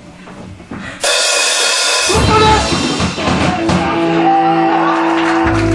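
Live rock band playing: a loud cymbal crash about a second in, then a drum-kit fill, with held electric guitar notes and a bass note coming in near the end.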